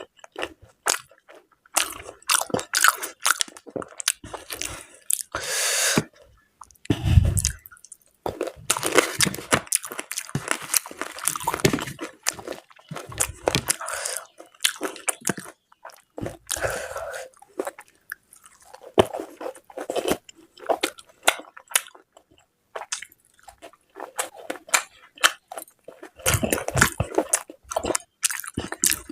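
Close-miked eating sounds: chewing, biting and crunching of mutton curry, luchi and salad, with irregular wet mouth clicks. A brief low thud about seven seconds in.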